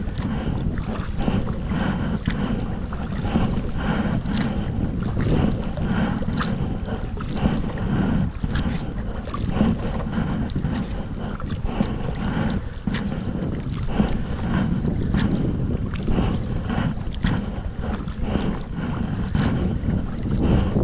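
Wind buffeting the microphone in a loud, steady low rumble, over the repeated splash and drip of kayak paddle blades dipping into the river water, about one or two strokes a second.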